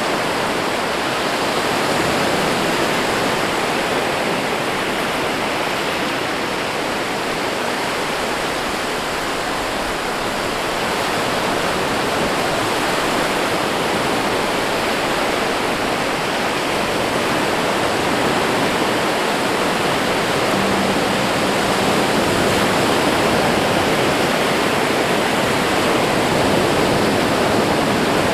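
Steady rushing water, an unbroken hiss with only slight swells in level.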